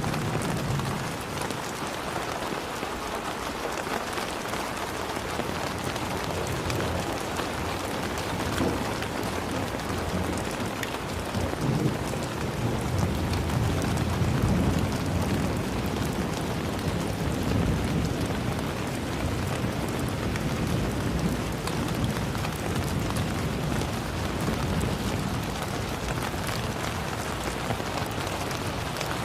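Steady heavy rain falling and pattering on surfaces, with a low rumble swelling and fading in the middle.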